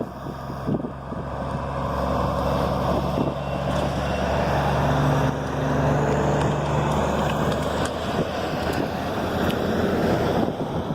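A heavy truck's engine running close by. It grows louder over the first couple of seconds, then holds a steady low drone under road and wind noise.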